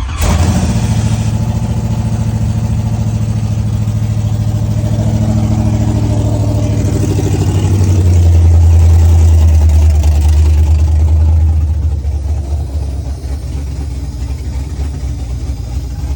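GM LS V8 engine with an aftermarket BTR camshaft, swapped into an Infiniti G35, running on its first start-up. It holds a fast idle, grows louder for a few seconds about halfway through, then settles to a lower, quieter idle.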